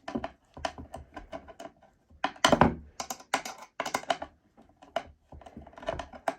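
Screw being driven by hand with a screwdriver into pre-drilled wood: irregular clicks, ticks and scrapes as the tip turns in the screw head and the screw bites, with denser, louder clusters in the middle.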